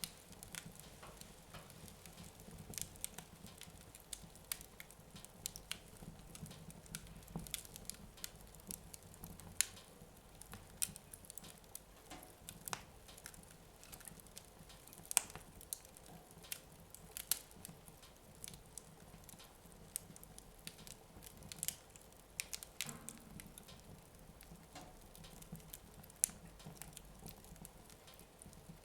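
Wood fire in a fireplace crackling, with faint, irregular small snaps and pops scattered every second or so.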